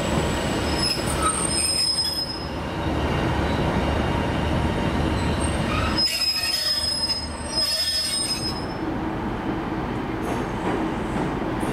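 Train moving through a station: a steady rumble with thin, high-pitched wheel squeal on the rails, once about a second in and again for a couple of seconds a little past the middle.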